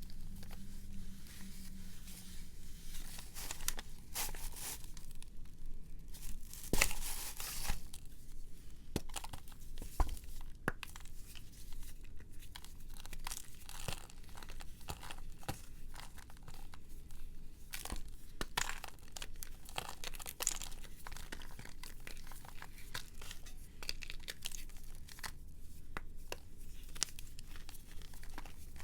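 Brittle material being crumbled and crunched, a steady stream of small sharp crackles, with a louder crunch about seven seconds in and a sharp snap about ten seconds in.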